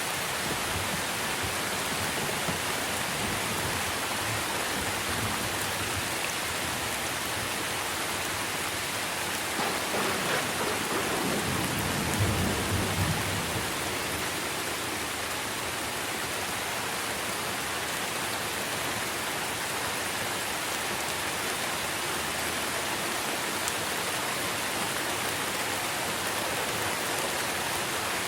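Steady rain falling on trees, an even hiss of raindrops on leaves. About ten seconds in, a low rumble of thunder swells and fades away over some four seconds.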